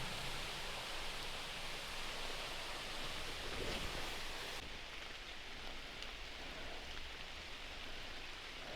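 Steady hiss of rain and falling water at the base of a waterfall. About halfway through, the highest part of the hiss drops away.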